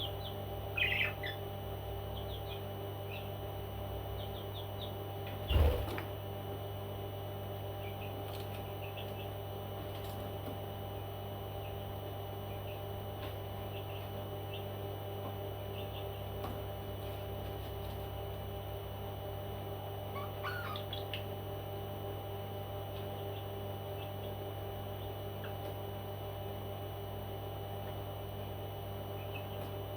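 Pet parrot giving a few short chirps, scattered through a steady electrical hum, with one loud thump about five and a half seconds in.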